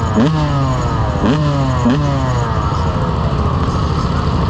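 Motorcycle engine revved in quick throttle blips, four times in two pairs over the first couple of seconds, its pitch jumping up and sliding back down each time, then a steady rumble of running engines and street noise.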